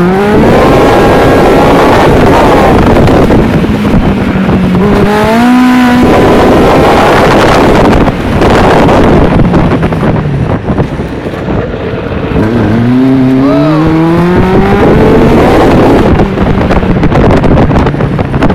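1000 cc motorcycle engine in a two-seater buggy revving hard under acceleration. Its pitch climbs at the start, again about five seconds in, and once more past the middle, dropping back between the climbs.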